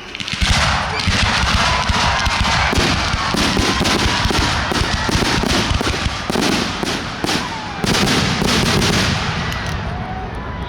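Fireworks crackling and popping in a rapid, dense barrage that starts suddenly about half a second in and thins out near the end.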